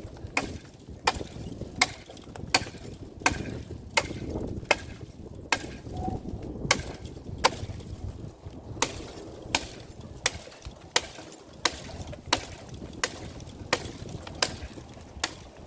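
Hand pruning shears clipping branches of an overgrown bush, a sharp snip about every 0.7 seconds in a steady rhythm.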